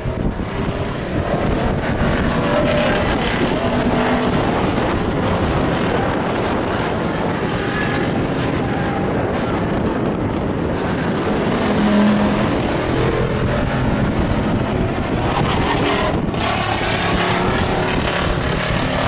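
Engines of stock pickup race trucks running on the track, a steady mix of several trucks' engine noise with pitches shifting as they accelerate and pass.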